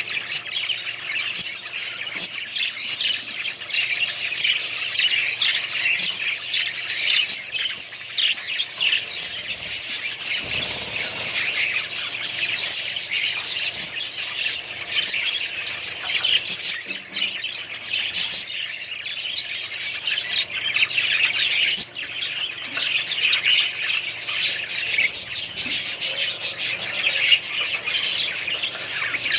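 A large flock of budgerigars chirping and chattering, many birds at once in a dense, continuous chorus.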